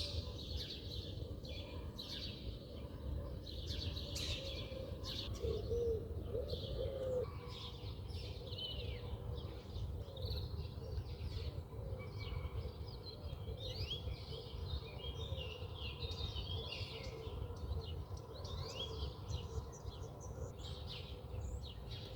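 Several birds chirping and calling, with many short overlapping chirps throughout and a lower warbling call about five to seven seconds in, over a steady low background rumble.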